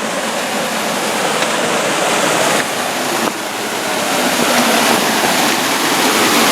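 Rushing water of a mountain stream pouring down a cascade, a steady hiss that grows gradually louder.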